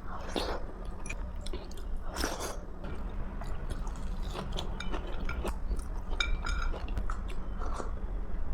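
Close-miked chewing and mouth sounds of a person eating, with scattered soft crunches and small clicks over a steady low hum.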